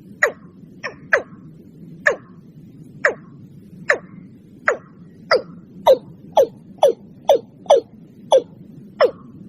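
Watercock calling: a series of short, sharp notes, each falling steeply in pitch, repeated about once a second and quickening to about two a second in the middle, over a low steady background hiss.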